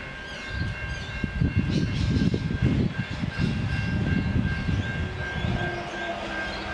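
Adelaide Metro 3000-series diesel railcar approaching, an uneven low rumble, with a steadier engine tone coming in near the end. A steady high ringing tone runs under it throughout.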